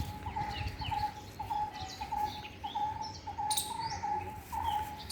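Birds calling: one bird repeats a short, slightly rising note about three times a second, while other birds chirp higher and fainter.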